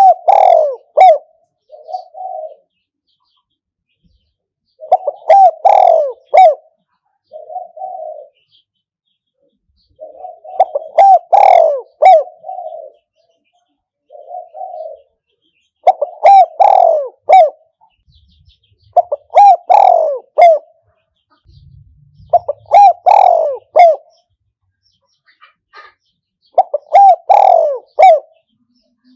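Spotted dove cooing: a series of rolling, multi-note coo phrases every few seconds, with a short softer coo between some of them.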